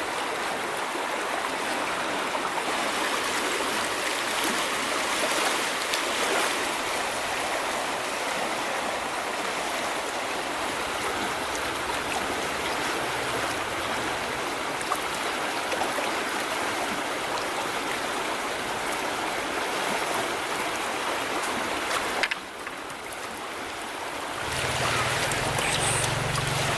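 Flowing river water rushing steadily. About 22 seconds in the level briefly drops, and near the end a low steady hum joins the water.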